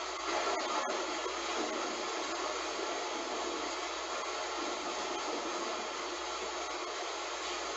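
Heavy rain falling steadily, an even hiss with a slight swell about a second in.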